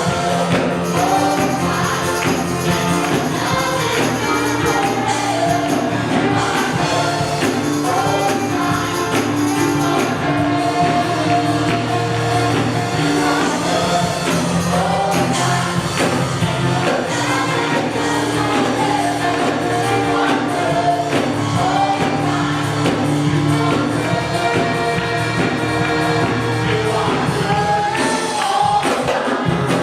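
Gospel-style worship music: a group of singers over a band, playing steadily throughout.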